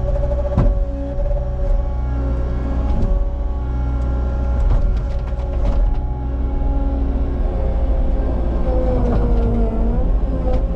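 Cat 279 skid steer's diesel engine running steadily at working speed, with a few short clanks along the way. Near the end its pitch sags briefly and then recovers.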